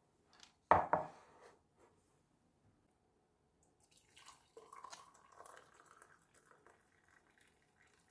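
A single sharp knock about a second in, then a few seconds of dripping, trickling water.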